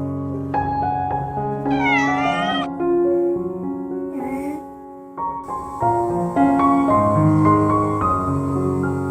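Background music with held keyboard chords, over which a cat meows once about two seconds in, with a fainter short meow a couple of seconds later.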